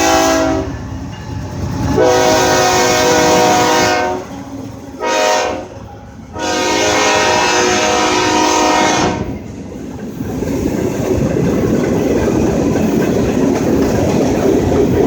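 Horn of a BNSF train led by a GE ES44AC, sounding the grade-crossing signal: the end of a long blast, then a long, a short and a final long blast on a multi-note chord. After that the locomotives and freight cars rumble past with clickety-clack from the wheels.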